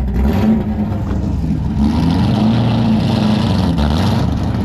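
Car engine running as a car drives by, its note rising and falling, with a rushing hiss for a couple of seconds in the middle.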